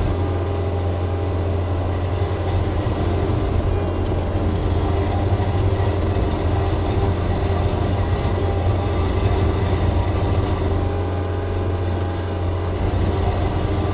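John Deere 335P skid steer's diesel engine running steadily under load, a constant low drone with a steady hydraulic whine over it.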